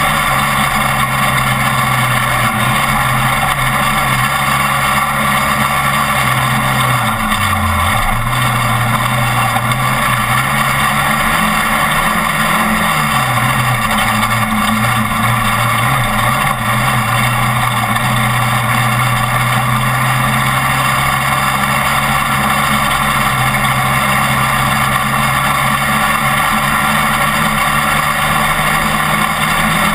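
Off-road race truck's engine running at a steady pitch under a loud, even rushing noise. The pitch drops sharply for a moment about a quarter of the way in and wavers briefly near the middle.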